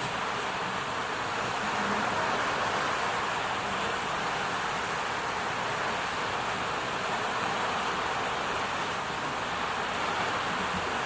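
Ocean surf washing in a steady, even rush, with no separate wave crashes or fire crackles standing out.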